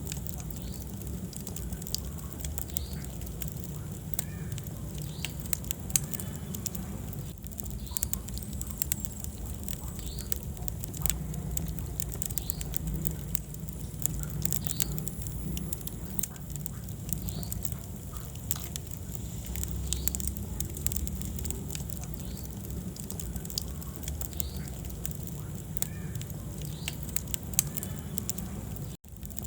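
Wood fire crackling in a fireplace: a constant scatter of sharp pops and snaps over a steady low rumble of the flames. The sound cuts out for an instant near the end.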